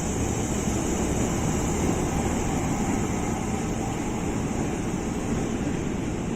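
JR 205 series electric commuter train running, a steady rumble and rushing noise with no distinct clanks or horn.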